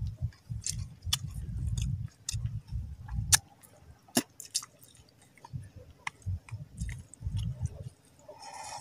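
Close-up wet chewing and lip smacking while eating raw lukot (sea hare egg strands), with many sharp mouth clicks. Near the end there is a short slurp as the container is tipped to the mouth.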